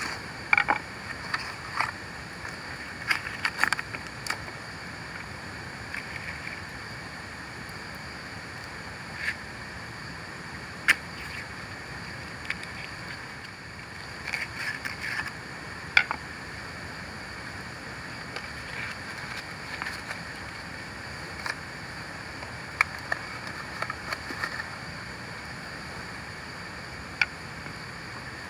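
Steady hiss of falling rain with irregular sharp ticks and taps scattered through it, a few coming in quick clusters.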